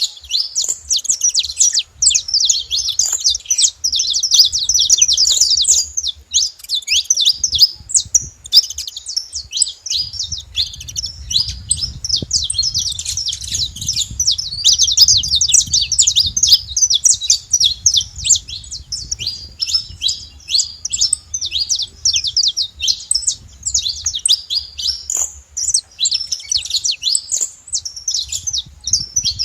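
A flock of saffron finches chirping and singing, many birds at once in a dense, continuous chatter of short high notes.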